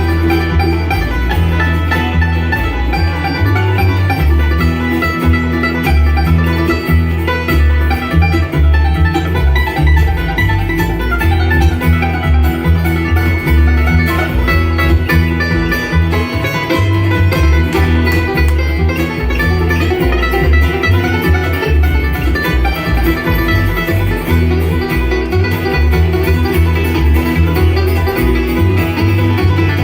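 Bluegrass band playing, with fast banjo and guitar picking over a steady bass line.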